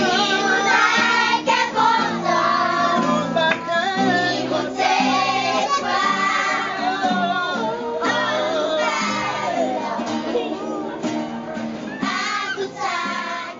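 Children singing a song over instrumental music.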